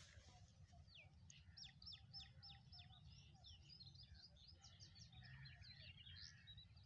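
Faint bird song: a run of about eight quick, high, downward-sliding chirps starting about a second in, then a jumble of twittering chirps.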